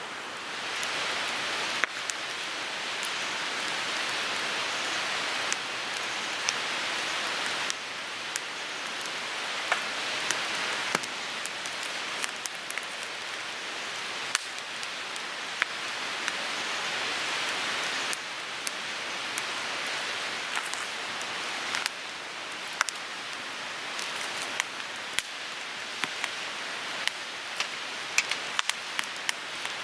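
Wood fire burning in a Picogrill 398 folding fire pit: a steady hiss that swells and eases every few seconds, with frequent sharp crackles and pops of burning wood.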